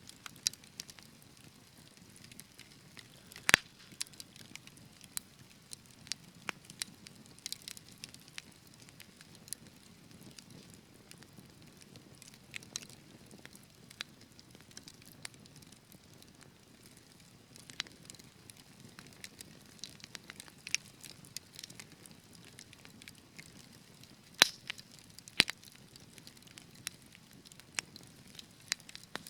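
Wood fire crackling in a fireplace: a soft, low hiss of burning with frequent, irregular pops and snaps, a few of them sharply louder, about three and a half seconds in and again near twenty-four seconds.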